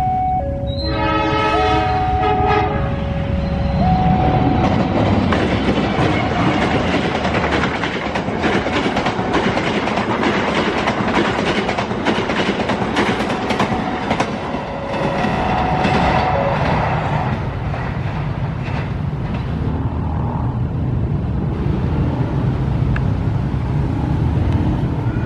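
Diesel-hauled passenger train passing through at speed without stopping. The locomotive's horn sounds in alternating two-note blasts for the first few seconds, then the coaches rush past with a steady rumble and a rapid clatter of wheels over the rail joints. The horn sounds briefly again about two-thirds of the way through.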